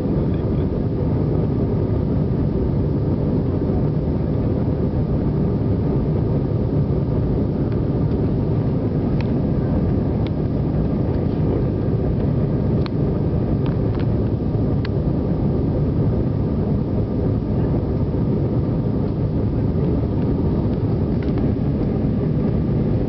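Steady roar of an airliner's jet engines and airflow heard from inside the cabin, with a few faint clicks about halfway through.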